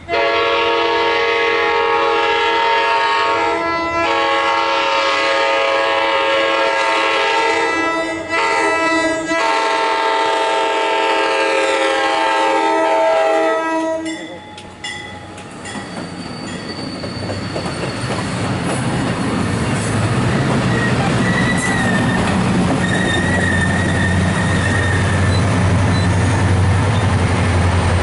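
MARC commuter train's horn sounding the grade-crossing signal: two long blasts, a short one and a final long one, ending about halfway through. Then the train passing close by with wheel noise and clicking over the rail joints, and the diesel locomotive's engine getting louder near the end as it goes by.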